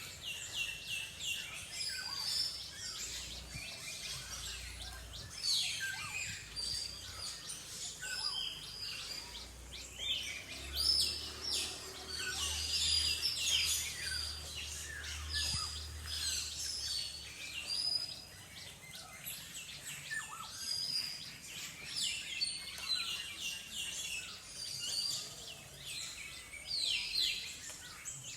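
Several small songbirds chirping and calling, with many short, quick notes overlapping throughout. A low rumble runs under them through the first half.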